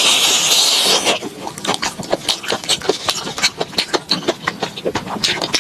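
Close-miked eating of fried enoki mushroom skewers: a noisy bite for about the first second, then rapid, irregular wet clicks of chewing.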